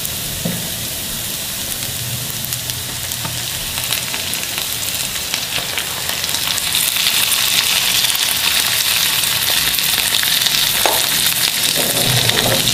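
Raw chicken pieces sizzling in hot oil on a bed of sautéed onions in a non-stick frying pan, a steady hiss that grows louder about halfway through as the pan heats back up.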